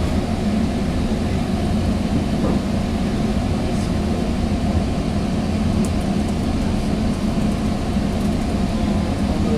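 Steady low rumble and rail noise heard inside a moving Sounder commuter-rail coach, pushed from behind by its locomotive, with a few faint clicks.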